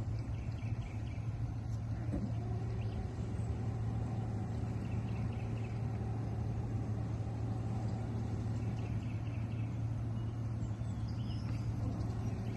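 A steady low engine hum with faint bird chirps.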